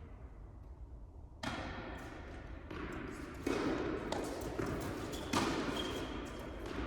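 Tennis ball being struck by rackets and bouncing on an indoor hard court: a series of sharp hits and thuds beginning about a second and a half in, echoing in a large hall.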